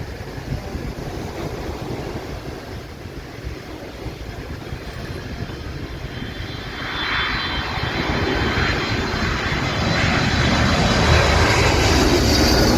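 Jet airliner coming in low on approach, its engine noise growing steadily louder from about halfway through, with a thin high whine over a low rumble. Surf is heard underneath early on.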